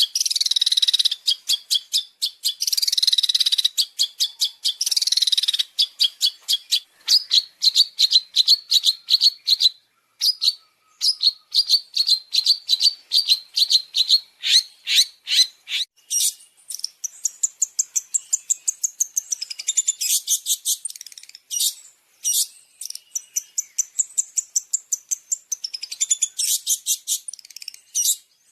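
Long-tailed shrike (cendet) song played as a bird-training master: rapid trains of harsh, scratchy notes. It opens with a few loud sweeping bursts, goes on to an even chatter of several notes a second, and about halfway through shifts to higher, thinner notes.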